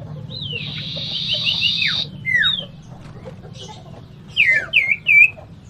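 Cipoh sirtu (iora) giving fighting calls: a harsh buzzing rattle lasting about a second and a half, sharp falling whistles, then a quick run of curling whistled notes near the end, over a steady low hum.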